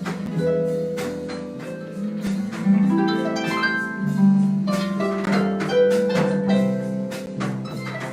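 Harp jazz ensemble playing live, with a harp picking out a quick run of plucked notes over sustained lower notes.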